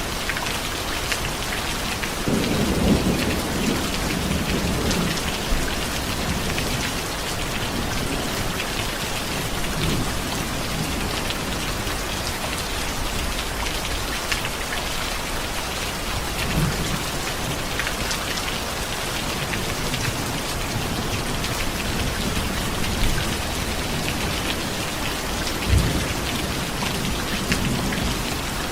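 Steady heavy rain falling and pattering on surfaces, with low rumbles of thunder: a rolling one a couple of seconds in and a shorter one near the end.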